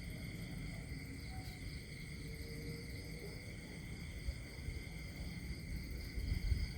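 Countryside nature ambience: a steady insect chorus chirring in several high bands over a low rumble, with a few faint short low calls.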